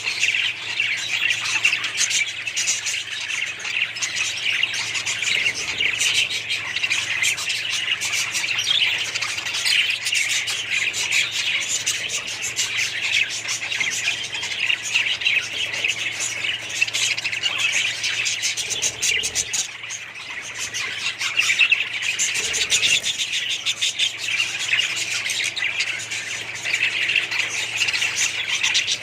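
A flock of small pet parrots chirping and chattering all at once, a dense unbroken din of many overlapping high calls.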